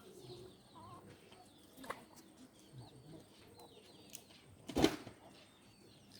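Small birds chirping in short, falling calls, with a faint knock about two seconds in and a louder sharp knock about five seconds in.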